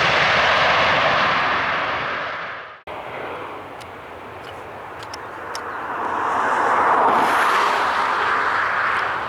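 Airliner engine noise, loud at first, fading and then cut off sharply about three seconds in. The engine noise of another airliner then swells to a peak about seven seconds in and fades again.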